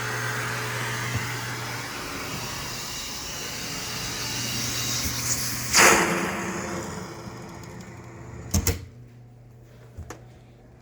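Vacumaid central vacuum's suction rushing steadily through the hose, with a brief loud whoosh about six seconds in, after which the airflow fades away as the suction stops. A sharp double click follows a couple of seconds later, with fainter clicks near the end.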